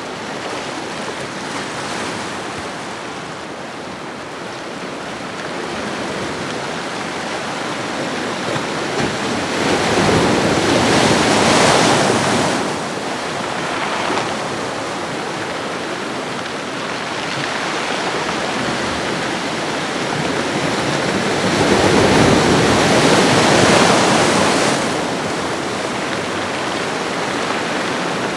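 Ocean waves washing onto a shore, a steady surf with two larger waves swelling and breaking, about ten seconds in and again past twenty seconds, each then falling back.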